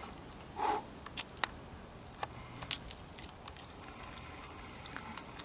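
A person biting into and chewing a piece of grilled squirrel meat: faint, scattered mouth clicks and smacks.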